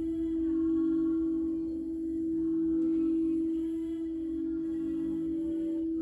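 Singing bowl sounding a sustained low hum with fainter overtones above it, its loudness swelling and fading slowly every couple of seconds.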